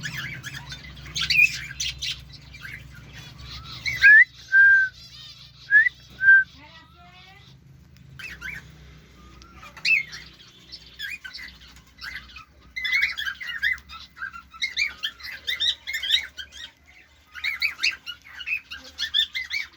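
Pet bird chirping and calling, with a few short, loud, clear whistles about four seconds in and bursts of rapid twittering in the second half.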